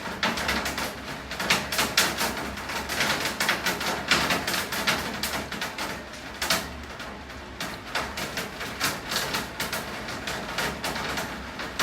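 Rain falling, with many close drops and drips splattering irregularly on hard surfaces in a dense, uneven patter over a low steady background rumble.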